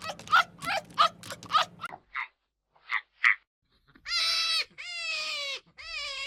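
A quick run of short, high yips, about three a second, that cuts off two seconds in; then a few brief chirps and three long, high bleats from a young goat or sheep, each sliding down at the end.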